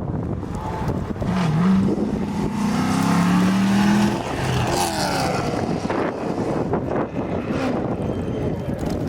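A rally car passes at speed. Its engine note climbs for a couple of seconds and is loudest near the middle. The pitch then drops as the car goes by, and it fades into steady noise.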